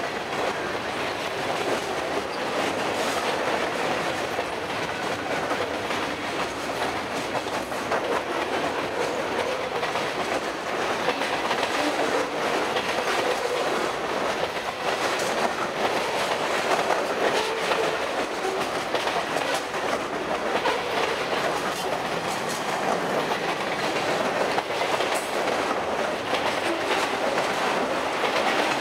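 Freight cars of a long freight train rolling past close by: a steady noise of steel wheels on rail, with a fast run of clicks and clatter from the wheels and couplings.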